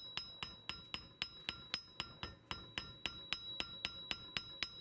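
A hammer striking brass in quick, even blows, about four a second, each with a bright metallic ring, while small brass sprouts are shaped.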